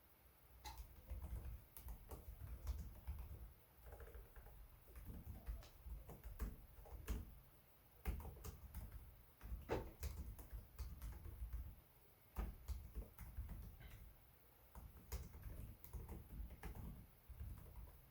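Typing on a Lenovo Legion 5 Pro laptop keyboard: runs of quick key clicks broken by short pauses.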